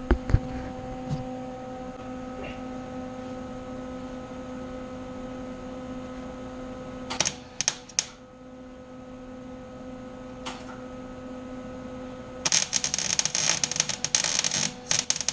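Electric welder tack-welding reinforcing plates onto a steel body mount bracket: a steady hum, two or three short welding crackles about seven to eight seconds in, then a longer continuous crackle of the arc from about twelve seconds on.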